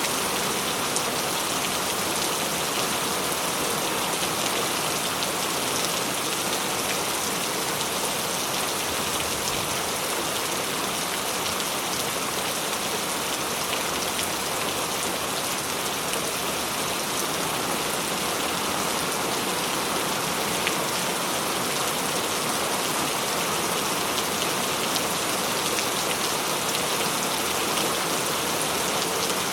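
Steady rain falling: an even hiss of rain with faint scattered drop clicks, unchanging throughout.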